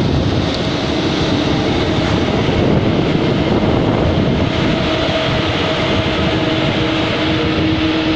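A train running through the station close by: a loud, steady roar of rolling and running noise, with a steady hum coming in about five seconds in.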